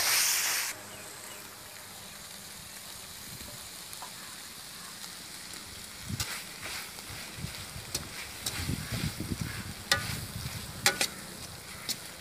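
Chicken pieces frying in coconut oil in a large iron kadai, with a sizzling hiss that is loud at first and drops abruptly within the first second to a steady low sizzle. From about halfway on, a metal ladle stirring the pan scrapes and clinks against the iron.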